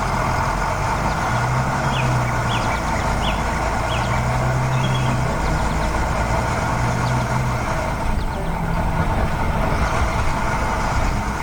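A heavy vehicle's engine running, a loud rumble with a low hum that swells and fades several times. Faint bird chirps sound in the first few seconds.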